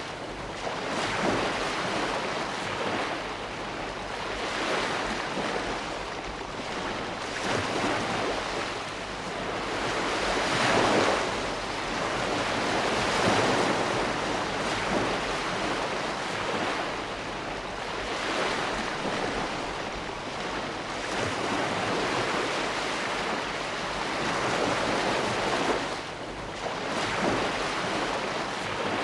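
Ocean surf: waves breaking and washing ashore in a steady roar that swells and eases every few seconds.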